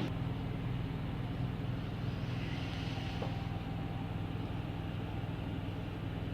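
Steady low mechanical hum of machinery running in a motorhome, with even tones that do not change.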